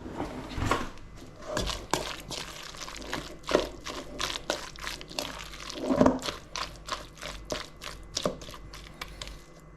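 Kitchen handling sounds: a busy run of clicks and knocks from utensils against bowls and dishes, with a few louder knocks, as the bhaji mix is worked. Wet squelches come through at times.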